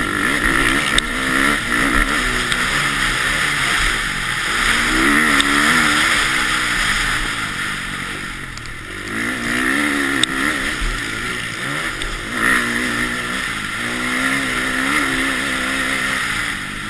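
KTM motocross bike engine heard on board at race pace, revving up and falling back again and again as the rider opens and shuts the throttle and shifts through the gears.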